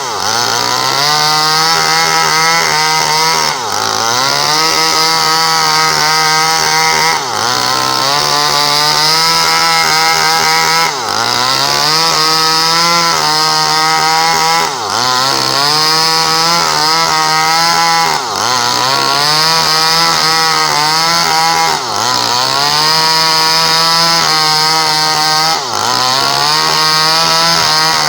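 Small Stihl chainsaw running at high speed while cutting coconut palm wood. Its engine note drops sharply and climbs back again about every four seconds, repeating through the cut.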